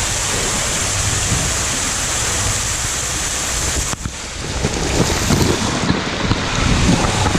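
Wind buffeting the phone's microphone with a steady rushing noise. About four seconds in it cuts out abruptly and gives way to rougher, uneven splashing as water from the lazy river gets onto the camera.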